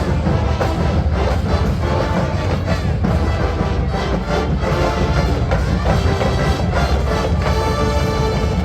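A large massed marching band playing: brass over a steady drum beat.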